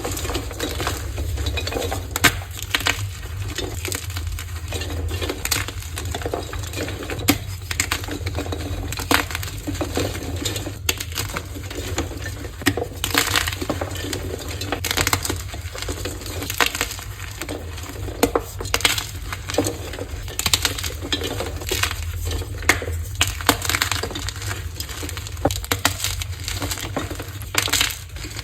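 Dyed gym chalk blocks being crushed: dense, irregular crunching and crumbling crackles throughout, over a steady low hum.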